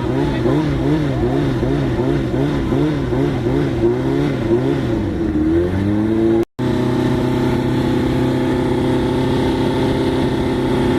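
Motorcycle engine revved in quick blips, about two a second, then wound up and held at steady high revs, as at the start line of a drag race. The sound cuts out briefly once about six and a half seconds in.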